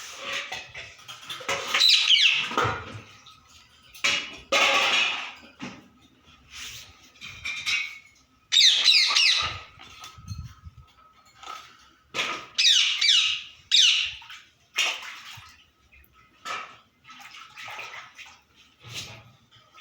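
Indian ringneck parakeet calling: a string of loud, high squawks and chatter with quick pitch slides, coming in bursts every second or few seconds.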